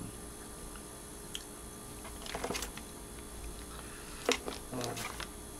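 Close-mic'd eating sounds of a hamburger being chewed: scattered wet mouth clicks and squelches, with a small cluster about two and a half seconds in and a sharper click after about four seconds.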